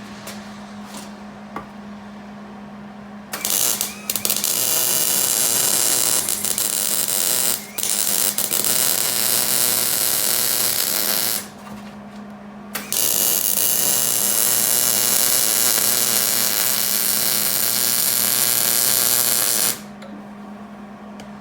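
MIG welding arc of a Hobart Handler 190 laying beads on a rusted steel exhaust flange: a loud, steady crackling sizzle in three runs of about four, three and seven seconds, with short pauses between.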